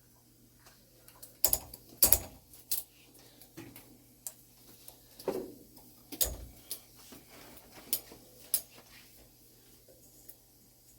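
Irregular light metallic clicks and taps as a steel clock mainspring is handled and greased by hand, its coils knocking against each other and the bench.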